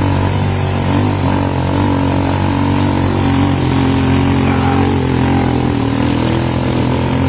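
Habal habal motorcycle engine running at a steady speed during a ride, with even road and wind noise.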